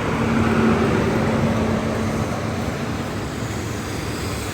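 Class 43 HST diesel power car and its train moving past: the rumble of the engine and wheels swells about a second in, with a steady engine hum that fades after about two seconds.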